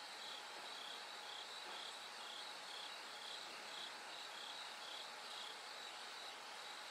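Bell crickets (suzumushi) singing: short high ringing notes repeating about twice a second, over a steady high trill of other insects.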